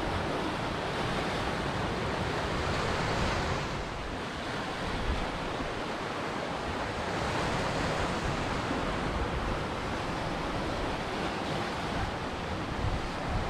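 Ocean surf washing onto a shore: a continuous rush of water that swells twice and eases between the waves.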